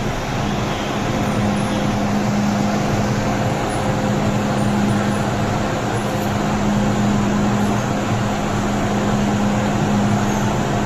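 MTR Tsuen Wan line M-train electric multiple unit running at steady speed: a continuous rumble of wheels on rail with a constant low hum.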